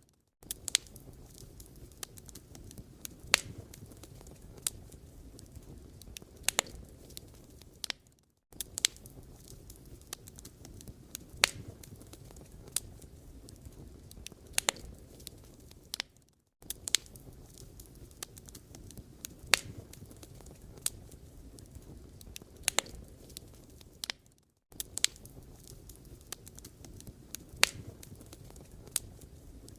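Firewood burning with irregular crackles and sharp pops over a low, steady rumble. The sound cuts out briefly about every eight seconds.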